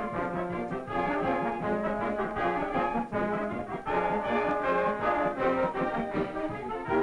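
Brass band music: a steady run of quick notes.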